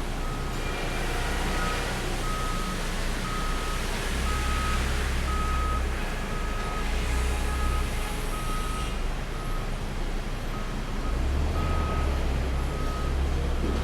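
A vehicle's back-up alarm beeping steadily at one pitch, about two beeps a second. Under it runs a continuous din of engine and machinery noise, with a low rumble that swells and eases several times.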